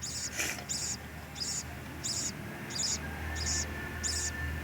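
Parrot giving a run of short, high chirps, evenly spaced at about three a second. A low steady hum comes up about three seconds in.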